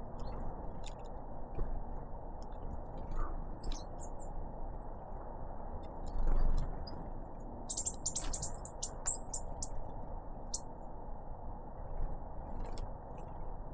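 A tit gives a quick run of short, high, thin call notes about eight seconds in, over a steady low background rumble with scattered light clicks and a dull thump about six seconds in.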